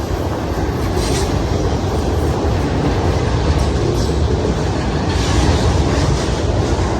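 Union Pacific freight train passing close by at speed: a loud, steady rumble of steel wheels on rail, with occasional clatter from the cars.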